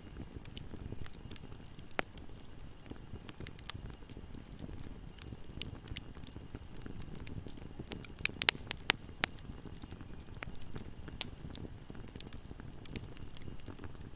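A wood campfire burning, a steady low rumble of flames with scattered sharp crackles and pops, a quick cluster of the loudest pops a little past halfway.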